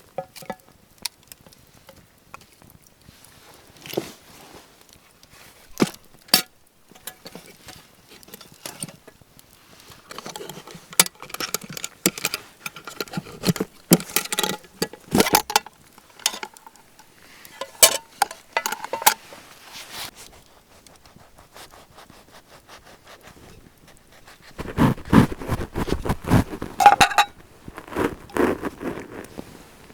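Irregular clicks, rustling and scraping of things being handled, in bursts, busiest in the middle and near the end.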